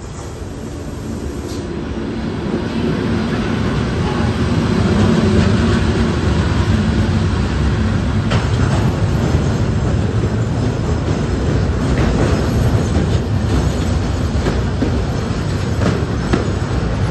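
Train running past on the rails, growing louder over the first few seconds and then holding at a steady rumble, with a low hum and repeated sharp clacks of wheels over the rail joints.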